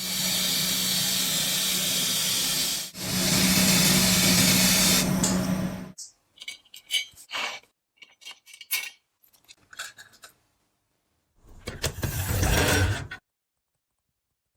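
An electric power tool running steadily, in two runs of about three seconds each, then a scatter of short clicks and knocks, then one more brief run of the tool near the end.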